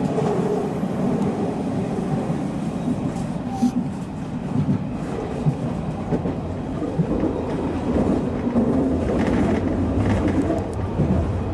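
Odakyu commuter train running on the line, heard from inside the car: a steady rumble of wheels on rail with occasional clicks over rail joints.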